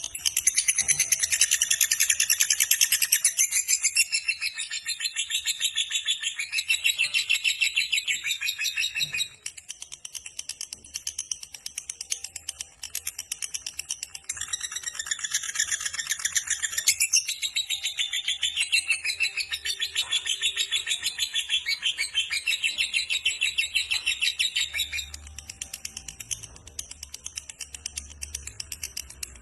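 Lovebird doing its 'ngekek' song: a long, fast, shrill chattering trill. It runs for about nine seconds, drops back, then comes again in a long run of about ten seconds before fading near the end.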